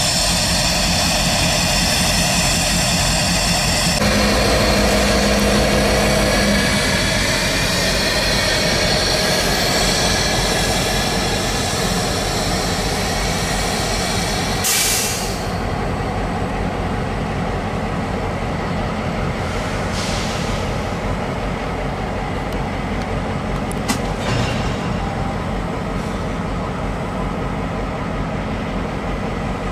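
Diesel freight locomotive running as the train moves slowly, its engine drone mixed with the noise of rail cars rolling on the track. Faint high, slowly drifting whining tones sit over it in the first half, and the sound changes abruptly about four seconds in and again about halfway through.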